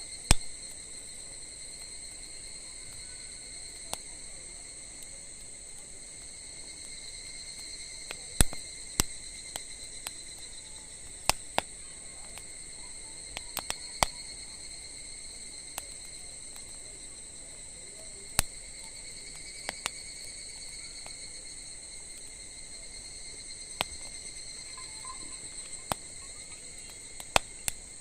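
Wood fire crackling, with sharp pops every second or two, over a steady chorus of insects singing.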